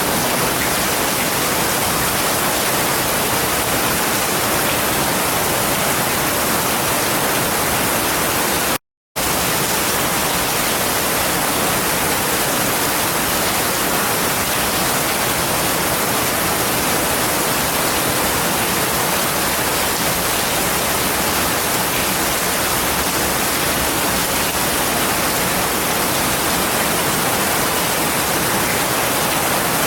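Heavy rain falling as a steady, even hiss, with a brief cut to silence about nine seconds in.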